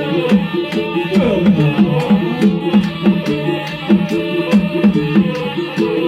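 Batak Toba gondang bolon ensemble playing: the sarune bolon double-reed oboe carries a gliding, ornamented melody over fast, pitched patterns on the tuned taganing drums, with sharp ticks keeping an even beat.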